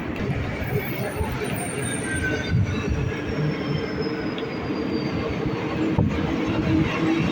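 Santiago Metro Line 1 rubber-tyred train running, with a steady rumble and a faint high whine that slowly falls in pitch partway through.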